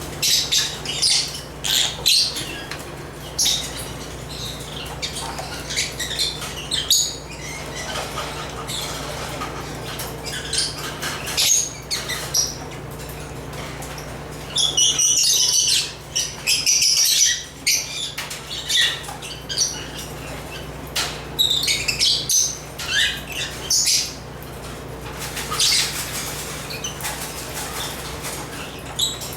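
African lovebirds (Agapornis) chirping and squawking in quick, high-pitched bursts, with a denser run of calls about fifteen seconds in. A steady low hum lies underneath.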